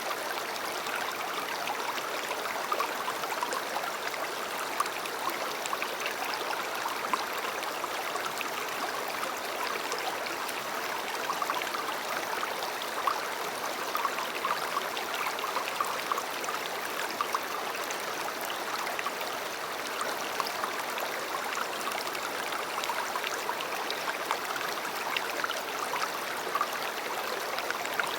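River water flowing: a steady rush with small splashes and gurgles throughout.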